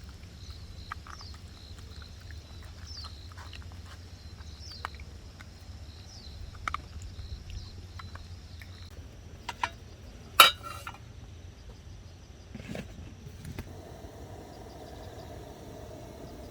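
Outdoor night ambience: a steady high drone with a short falling chirp repeating about once a second for the first nine seconds, over scattered faint crackles. One sharp snap comes a little past ten seconds in, and a steady engine hum comes in near the end.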